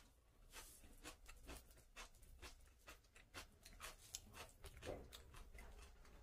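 Faint, close-miked eating sounds: irregular soft mouth clicks from chewing chicken and rice, several a second.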